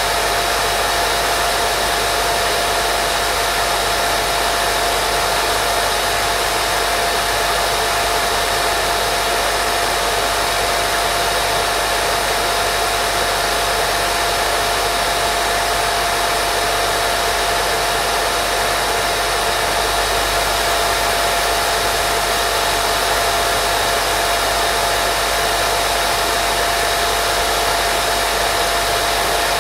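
Continuous white noise for baby sleep: a steady, unchanging hiss with a thin steady tone running through it.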